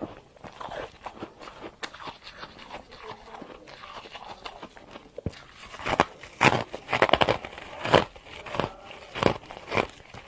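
A person biting and chewing mouthfuls of freezer frost, crunching in the mouth. Soft crackly chewing at first, then louder crunching bites about twice a second from about six seconds in.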